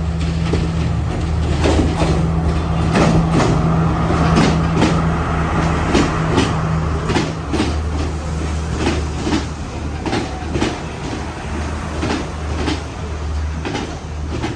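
A moving passenger train: its wheels clack over the rail joints about twice a second, over a steady low drone and running noise.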